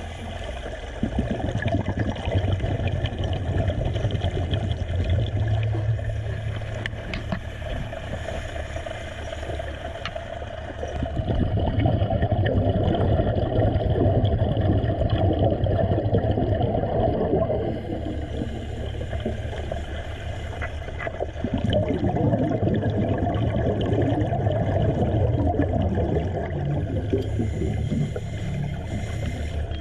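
Underwater bubbling and gurgling water noise with a low rumble, swelling louder for several seconds twice.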